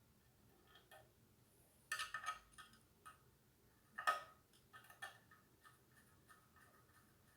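Irregular light clicks and small clattering knocks of hard parts and hand tools being handled, with two louder clusters about two and four seconds in.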